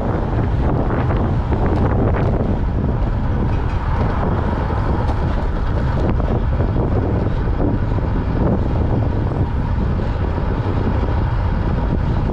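Steady wind noise buffeting the microphone of a camera carried on a road bicycle being ridden at speed.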